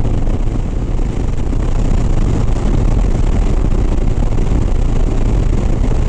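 Steady wind rush and engine and road noise of a Harley-Davidson Sport Glide cruising at highway speed, with wind buffeting the microphone.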